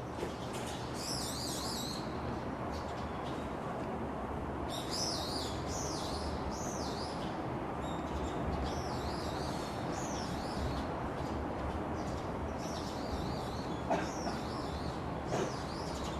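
Small birds chirping and warbling in several bouts of high, fast wavering phrases, over a steady background hiss and rumble, with a couple of short clicks near the end.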